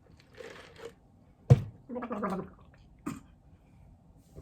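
A woman coughing and clearing her throat, with a sharp cough about a second and a half in and a shorter one near the end, trying to dislodge a piece of cookie stuck at the back of her throat.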